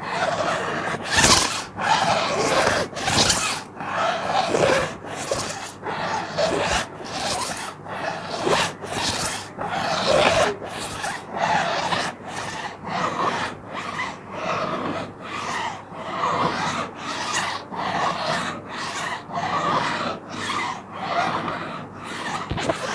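Plastic sheet being scratched in quick repeated strokes, about two a second, each a short crackly scrape with a brief pause between.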